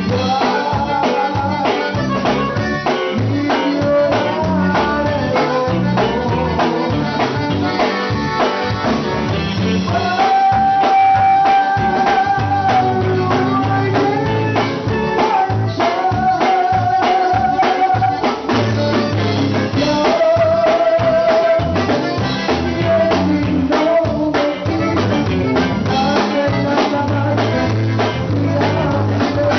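Tejano conjunto band playing a song, with a held-note melody line over bass and a drum kit keeping a steady beat.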